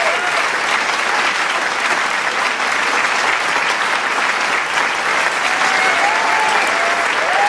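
Large crowd applauding with steady, dense clapping. Shouted cheers rise over the clapping at the very start and again in the last second or two.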